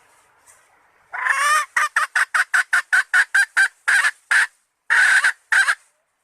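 Red junglefowl hen calling, a call that draws males. A drawn-out opening note about a second in runs straight into a rapid series of short clucks, about five a second, then a few longer notes near the end.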